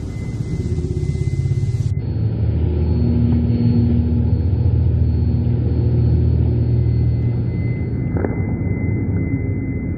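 A loud, low, steady rumble like vehicle or traffic noise, with a faint high tone held above it. Its texture changes abruptly about two seconds in and again near eight seconds.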